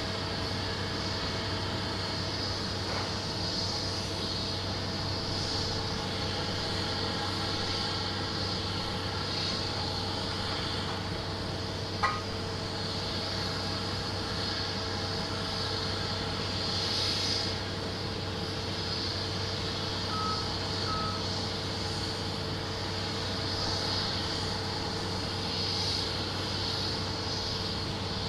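Airport apron ambience: a steady mechanical hum from aircraft and ground-support vehicles. There is a sharp click about twelve seconds in and two short high beeps near twenty seconds.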